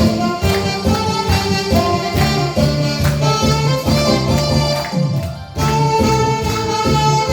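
Saxophones playing a Korean trot melody in held notes over bass and a steady drum beat, with a short break in the music about five seconds in.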